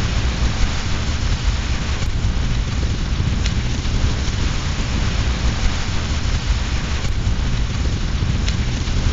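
Steady heavy rain with a deep low rumble underneath, and a few faint sharp pops from a crackling fireplace fire.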